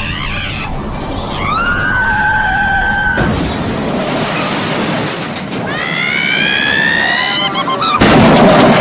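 Cartoon car-crash sequence: a long, high tyre-like squeal, a sudden crash, a rising high-pitched wail, then a loud smash near the end, the loudest moment.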